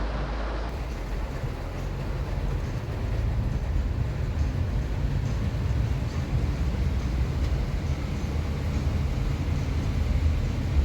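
Steady low rumble of a moving vehicle heard from inside, with an even wash of road or running noise above it.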